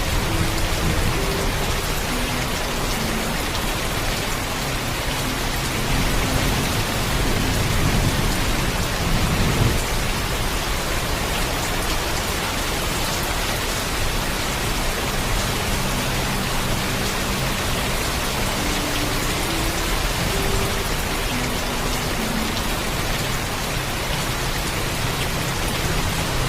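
Steady heavy rain, with a low thunder rumble swelling up and fading between about six and ten seconds in.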